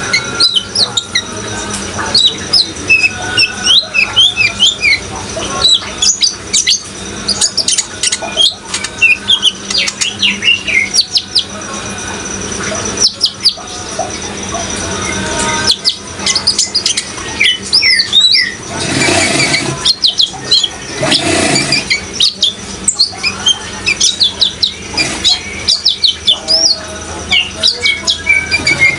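Kolibri ninja sunbirds singing in a fast, busy stream of high, thin chirps and twittering notes that glide up and down. Running water hisses underneath, with two louder rushes a little past halfway.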